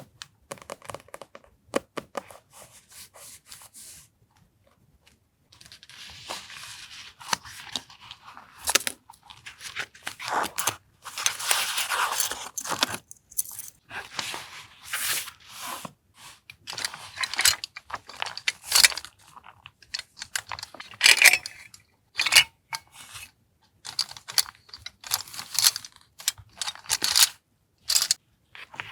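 Paper being torn and handled for a journal collage: irregular bursts of tearing, rustling and crinkling, starting after a few sharp clicks and soft rustles in the first five seconds or so.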